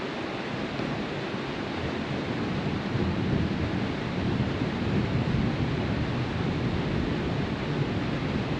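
Steady rushing wind noise on the microphone, with low gusty buffeting that grows stronger about three seconds in.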